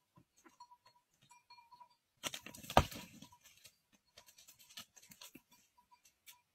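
Two rams butting heads: one sharp crack of the clash about three seconds in, with light scattered patter of hooves on gravel around it.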